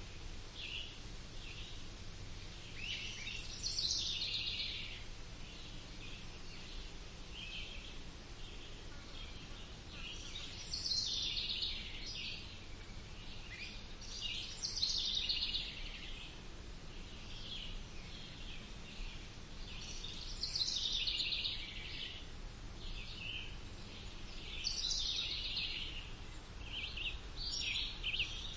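Birds singing, with phrases recurring every few seconds, over a steady low background rumble.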